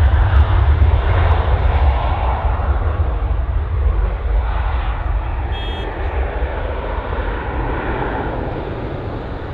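Engine noise of a departing airliner: a loud, deep rumble that fades steadily as the aircraft climbs away. A brief high chirp is heard about halfway through.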